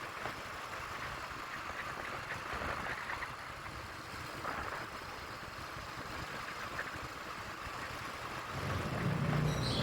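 Faint, steady engine and road noise from a motorcycle on the move.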